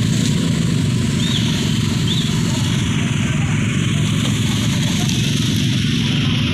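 Strong wind with rain, a loud, steady, deep rushing noise with no letup.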